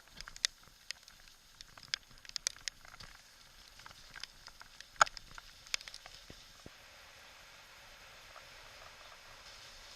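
Rain: drops ticking irregularly on a close hard surface over a soft steady hiss, the ticks thinning out in the last few seconds.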